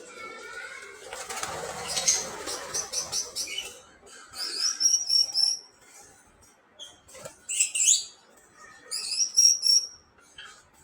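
Small pet parrots chirping in quick, high, repeated calls, with a flurry of wing flapping about a second in.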